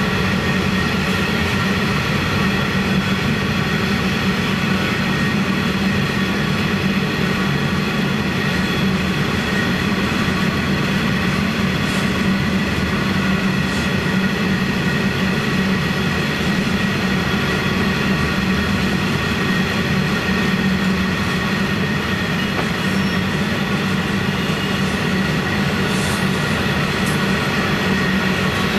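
Heavy iron ore wagons rolling past close by: a steady loud rumble of steel wheels on rail, with a continuous high-pitched squeal ringing over it.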